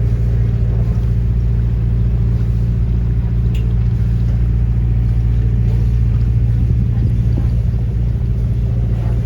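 Tour boat's engine running at a steady cruise, a loud, even low drone heard on board.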